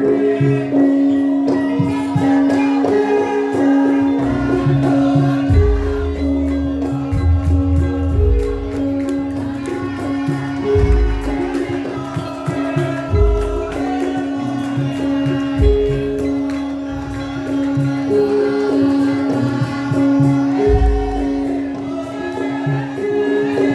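Traditional Javanese music for the lengger mask dance: a tone held throughout, a short figure of higher pitched notes repeating, jingling percussion, and deep drum strokes every few seconds.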